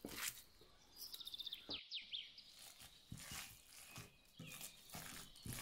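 A small bird singing a short phrase about a second in: a quick trill of high ticks followed by a few falling whistled notes, over soft irregular rustles and taps.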